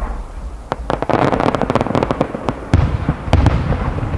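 Aerial firework shells bursting: a rapid string of sharp cracks starting about a second in, with two heavier booms near three seconds in over a low rumble.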